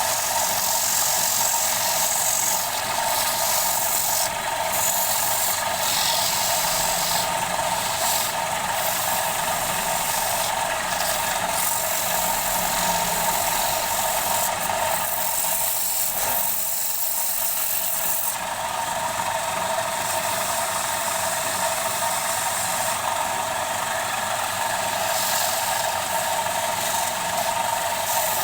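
Wood lathe running steadily with a steady whine, while a tool rubs on the spinning wooden bowl, its high scraping hiss swelling and easing every second or two.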